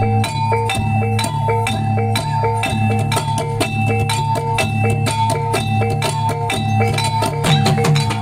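Javanese reog accompaniment music: drums with tuned gong-chimes or metallophones playing a fast, steady, repeating pattern.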